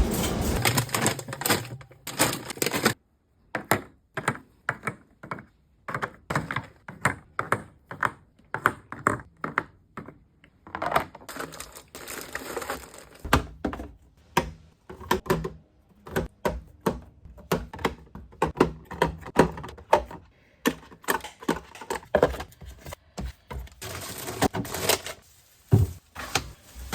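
Groceries being put into a fridge: a long, irregular run of clicks and knocks as plastic containers and packages are set down on the shelves, with rustling of packaging in the first few seconds.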